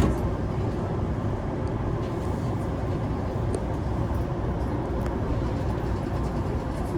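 Running noise inside a JR Keihin-Tohoku Line commuter train carriage: a steady low rumble of wheels on rails, with a few faint clicks.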